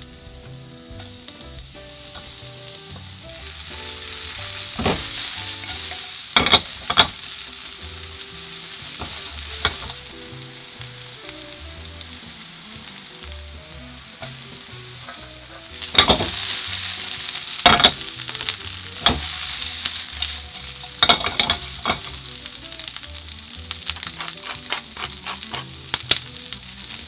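Sliced vegetables sizzling as they are stir-fried in hot pork fat in a frying pan, with sharp clicks and clacks now and then as they are stirred. The sizzle grows louder a few seconds in.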